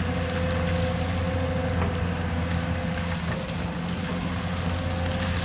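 Hyundai excavator's diesel engine running steadily under work, with a few faint clicks and knocks.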